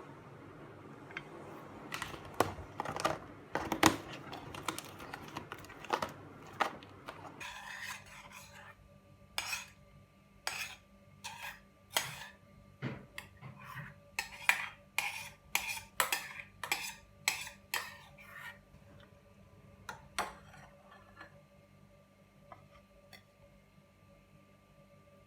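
Metal cutlery clinking against dishes in a kitchen, first a cluster of sharp clinks, then after a change of scene about seven seconds in a spoon striking a dish in a steady rhythm of one to two clinks a second, as in stirring, over a faint appliance hum. The clinks thin out after about eighteen seconds.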